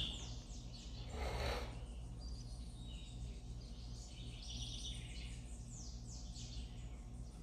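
Small birds chirping: many short, high, falling chirps over a steady low hum, with a brief rush of noise about a second in.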